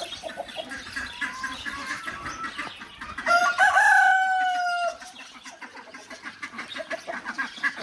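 Chickens clucking, with a rooster crowing once, loudly, for about a second and a half in the middle.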